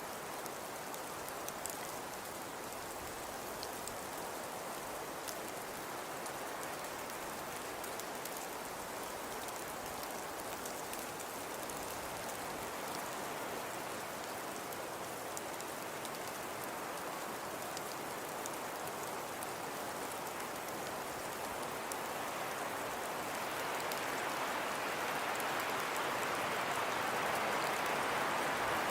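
Steady hiss of falling precipitation with many fine pattering ticks, like rain or sleet on a surface, offered as a snowfall soundscape. It grows louder about two-thirds of the way through.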